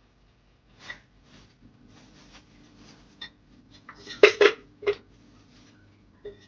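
Light clicks and knocks of household objects being handled, with a cluster of louder knocks about four seconds in, over a low steady hum that starts about a second and a half in.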